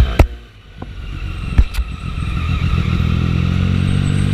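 Triumph 675 three-cylinder motorcycle engine on the move. After a sharp click its sound falls away for about a second, with a few more clicks. It then picks up again and settles into a steady drone.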